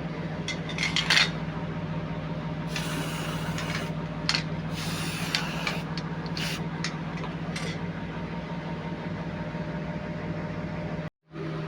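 A steady machine hum with a few short hissing bursts, like spraying, and light clicks over it; everything cuts out abruptly for a moment near the end.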